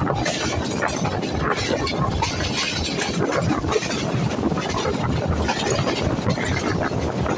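Passenger train coaches running at speed, heard from an open doorway: a steady rumble of steel wheels on the rails with constant irregular rattling and clatter.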